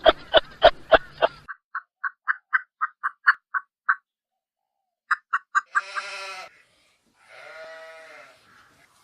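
Animal calls: a quick series of sharp calls, then a run of short, evenly spaced chirps at about four a second, then two longer drawn-out calls in the second half.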